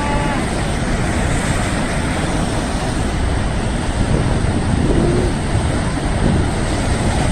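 Sea waves washing against a rocky shore: a loud, steady rush of surf with a heavy low rumble, swelling slightly about four to five seconds in.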